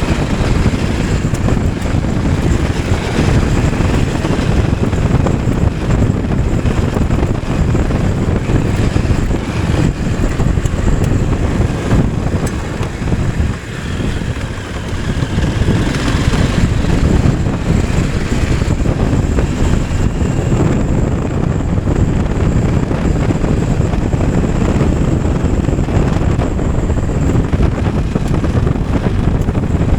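Motorcycle running along at speed, its engine mixed with heavy wind rush on the microphone, easing briefly about halfway through.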